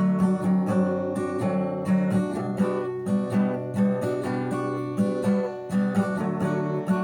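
Acoustic guitar, capoed at the second fret, strumming chords in a steady rhythm, with the chord changing every second or so.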